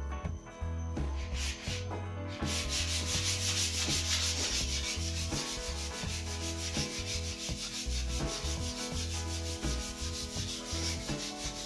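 Sandpaper rubbing along a wooden snooker cue shaft in quick, even back-and-forth strokes, starting about two seconds in.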